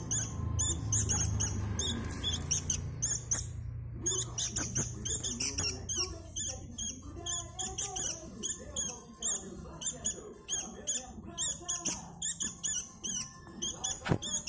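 Young sooty-headed bulbuls (kutilang) giving rapid, repeated high chirps, several a second, with a short pause a few seconds in. A lower wavering sound runs beneath the chirps.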